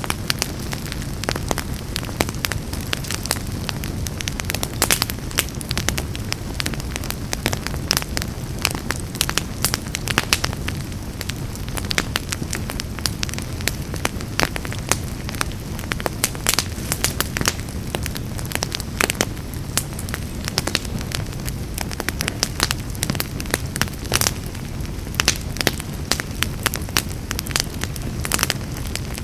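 Fire burning in a fireplace, crackling steadily with frequent sharp pops over a low, even rumble of flame.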